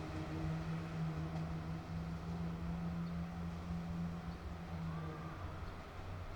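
JR Shikoku 2700 series diesel railcar running under a steady engine drone over a low rumble; the drone stops about five seconds in while the rumble goes on.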